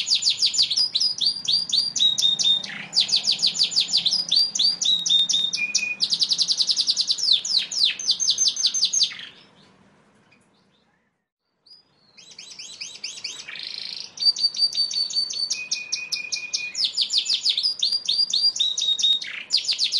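Yorkshire canary singing a long, loud song of fast repeated trills, with a few short steady whistled notes between them. The song stops about halfway through and starts again after roughly two seconds of silence.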